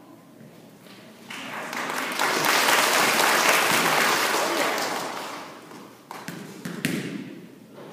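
An audience of schoolchildren applauding: a burst of clapping that swells for about a second, holds, then fades out. Two sharp thuds near the end.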